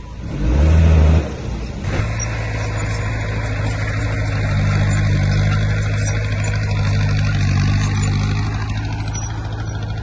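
Heavy diesel engine of earthmoving machinery running steadily at an even pitch, after a loud low rumble about half a second in that lasts under a second.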